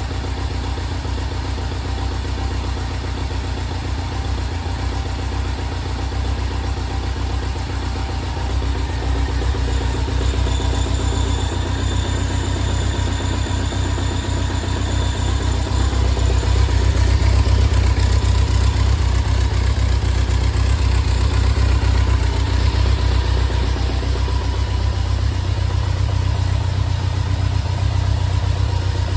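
1991 BMW K1's inline-four engine running steadily at idle through its exhaust, the level rising a little about ten seconds in and again near the middle.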